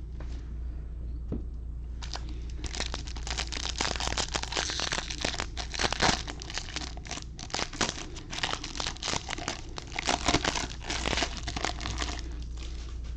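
Plastic wrapper of a 2021 Bowman baseball hobby pack being torn open and crinkled in the hands, a dense crackling rustle that starts about two seconds in and dies away near the end.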